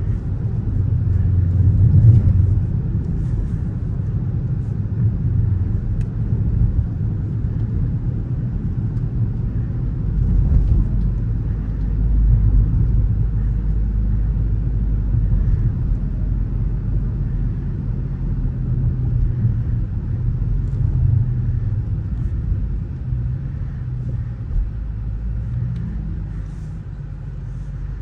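Dodge Charger R/T's 5.7-litre HEMI V8 and road noise while driving: a steady low drone that swells briefly about two seconds in and again about ten to thirteen seconds in.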